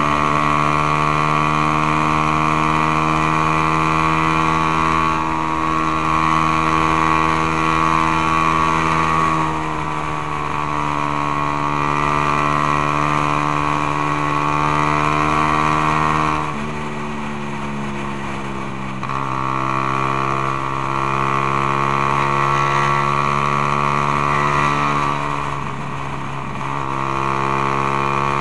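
Suzuki Raider R150's 150 cc single-cylinder four-stroke engine running under way, heard from the rider's seat. Its note holds steady, then drops briefly about two-thirds of the way through as the throttle eases, picks up again, and dips once more near the end.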